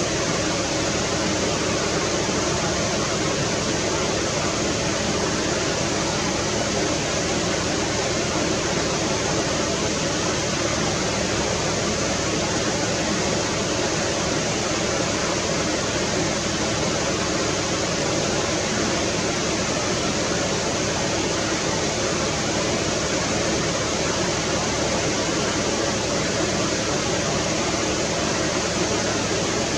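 Steady rushing water of a stream or river, an even roar with no breaks.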